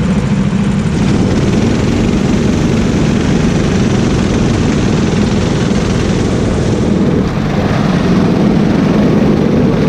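Go-kart engine running loud and steady under throttle, easing off briefly about seven seconds in before picking up again.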